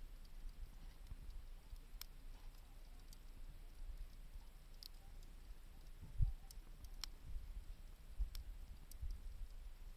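Wood campfire crackling: sparse, irregular sharp pops over a low rumble, with one dull thump about six seconds in.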